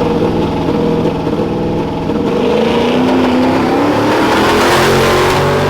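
A high-performance vehicle engine running loud, then accelerating from about two seconds in, its pitch climbing steadily and the sound swelling to a peak near the end.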